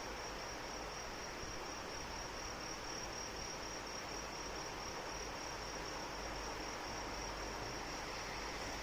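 Steady rain hiss with insects chirping in a continuous high, finely pulsing trill.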